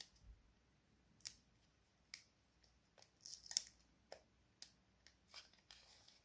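About a dozen small, sharp clicks and snips of hard objects being handled, spaced irregularly, with a tighter cluster about three and a half seconds in.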